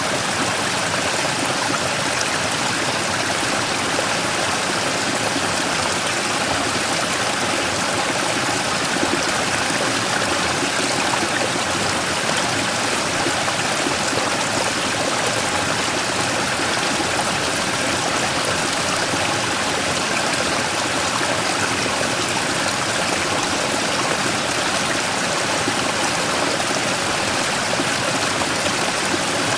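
Mountain stream rushing and splashing over a large rock in a steady, unbroken rush of water.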